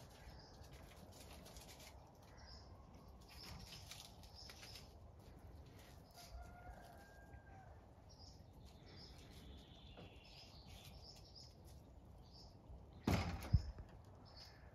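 Small birds chirping faintly now and then, with a brief loud rustling noise lasting about half a second near the end.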